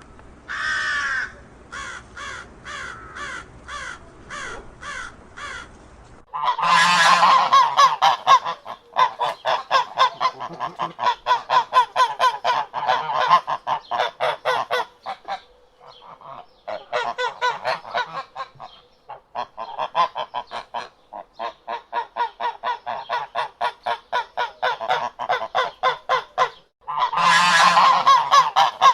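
Animal calls: one call near the start, then a string of short calls about two a second, then from about six seconds in a loud, fast run of rapid pulsed honking calls, several a second, broken by a few short pauses.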